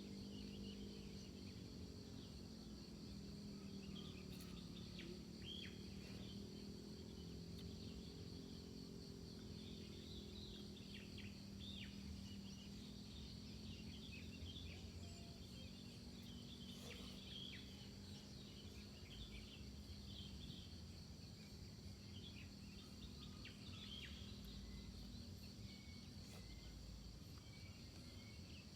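Faint outdoor ambience of insects chirring steadily at a high pitch, with many short chirps scattered through it, over a low steady hum.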